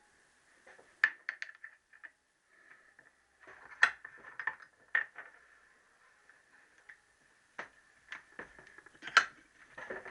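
Light metallic clinks and taps of engine parts and tools being handled, in irregular clusters, over a faint steady high tone.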